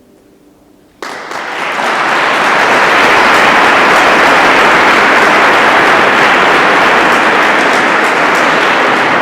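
The last chord of a piece dies away, then about a second in an audience starts applauding loudly, the clapping swelling and carrying on.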